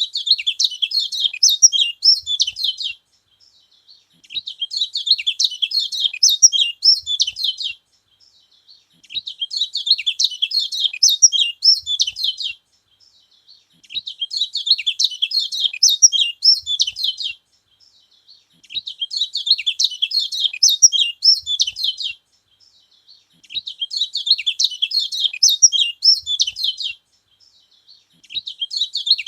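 Kecial kuning songbird singing a fast, chattering high-pitched song in phrases of about three seconds with short pauses between, repeating at a very even spacing, six phrases in all.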